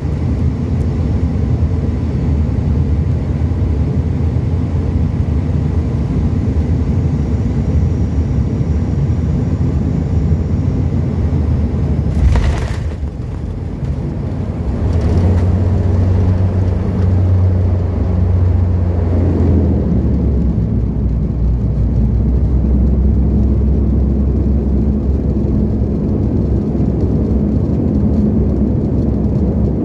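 Cabin sound of an Austrian Dash 8 Q400's turboprop engines and propellers during landing: a steady drone, a brief thump about twelve seconds in, then a louder propeller drone for about four seconds that settles into a lower steady drone. The thump and surge fit touchdown followed by the propellers being brought to reverse for braking.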